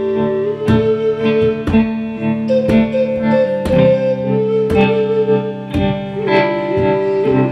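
Guitar playing chords, struck about once a second with the notes ringing on between strikes.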